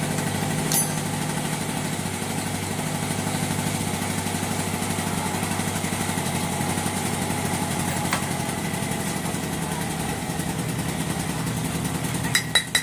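Small engine idling steadily, with a couple of sharp clicks. Near the end come a few quick clicks, and the engine stops.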